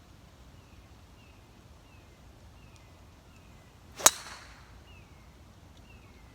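A single sharp crack of a golf club striking the ball on a tee shot, about four seconds in, followed by a short fading hiss.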